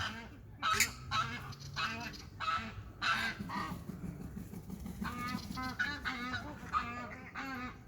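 Waterfowl calling: many short calls in quick succession, several birds overlapping.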